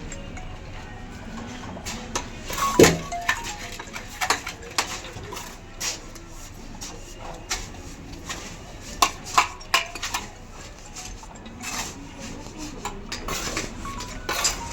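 Steel mason's trowel knocking and scraping on bricks and mortar: irregular clinks and taps, the loudest about three seconds in and a quick run of knocks around the ninth and tenth seconds.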